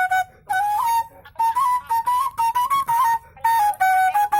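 Suling, an Indonesian bamboo flute, played solo: a melody of short, clearly separated notes, with brief pauses between phrases.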